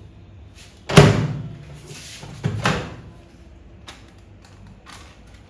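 Microwave oven door clunking open with one sharp, loud clack about a second in, followed by two softer knocks close together.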